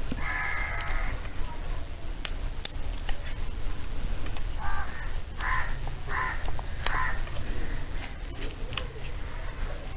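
Crows cawing: one short harsh caw just after the start and a run of several caws around the middle. A few sharp clicks or snaps sound in between.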